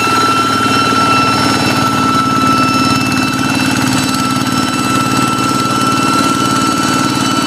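Kubota hand tractor's single-cylinder diesel engine running steadily: a rapid, even firing beat with a steady high whistle over it, the 'fighter jet' sound these tractors are known for.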